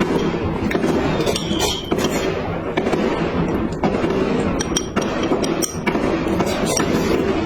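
Close-miked eating sounds: continuous chewing and crackling mouth noises with scattered sharp clicks, and the odd clink of utensils against a dish.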